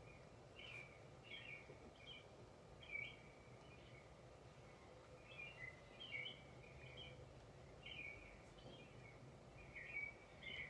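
Small birds chirping faintly, short high chirps repeating every second or so, over a faint steady background hum and hiss.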